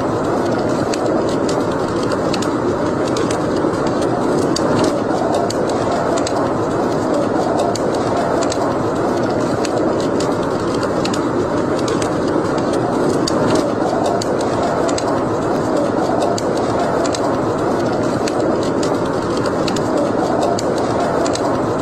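Wood fire in a fireplace crackling and popping: many short, sharp crackles at irregular intervals over a steady rushing noise.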